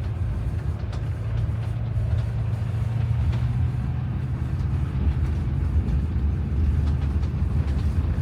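Steady low drone of a motorhome on the move, its engine and tyre road noise heard from inside the cab.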